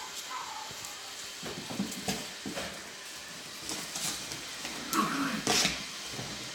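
Alaskan Klee Kai puppies scrabbling and scratching, with scattered knocks. There is a short whine near the start and a louder cry about five seconds in.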